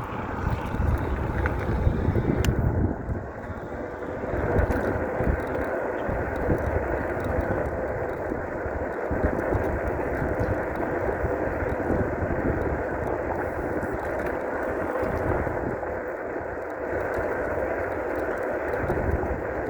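Wind buffeting the microphone over the steady rush of an electric bike's tyres on the road while riding. There is gusty low rumbling, heaviest in the first few seconds.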